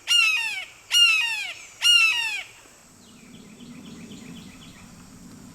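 A bird giving a loud, harsh call three times, about a second apart, each call falling in pitch. After that, fainter, quicker bird notes over a low murmur.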